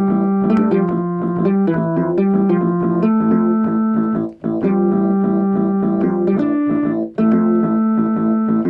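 Electronic keyboard playing a quick melody over lower held notes, with two brief breaks about four and seven seconds in.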